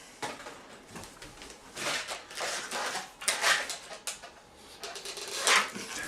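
Latex modelling balloon being handled and rubbed by hands, a string of short irregular rubbing and squeaking noises.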